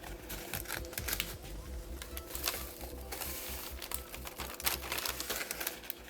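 Plastic bag crinkling while crisp, dehydrated jalapeno slices click and rattle as they are handled, a rapid, irregular run of light clicks.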